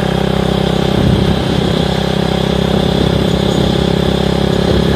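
Honda Grom's small single-cylinder engine running at a steady cruising speed, with wind rushing over the rider's microphone.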